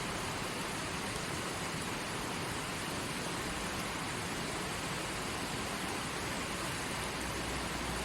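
Forest stream flowing steadily over rocks, a constant rushing of water.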